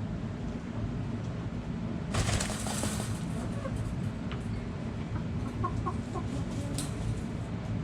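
Backyard chickens clucking in a few short, soft calls past the middle, over a steady low rumble. A brief rustling burst, about a second long, comes about two seconds in.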